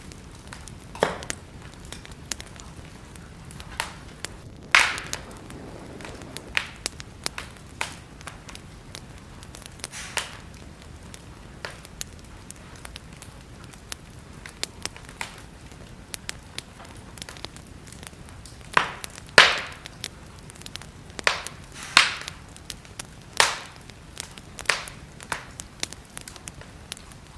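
Wood fire burning in a fireplace: a steady low hiss broken by irregular crackles and sharp pops, with a cluster of louder pops in the second half.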